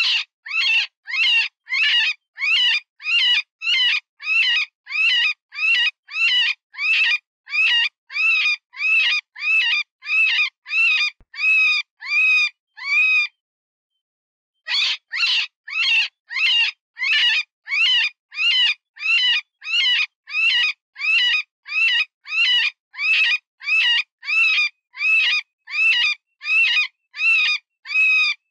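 Cottontail rabbit distress call: a steady series of shrill squeals, about two a second, each dropping in pitch at its end, with one pause of about a second and a half midway. It is the cry of a wounded rabbit, used to lure predators.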